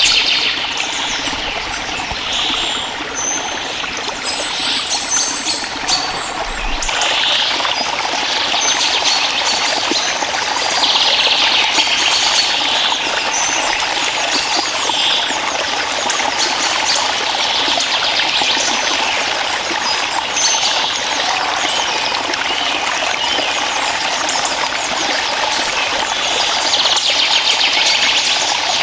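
Stream water trickling and running steadily, with brighter splashy patches every few seconds.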